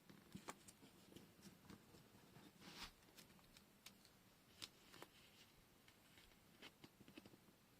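Near silence with faint handling sounds of washi tape and paper at a craft desk: scattered light clicks and taps, and a short rustle about three seconds in.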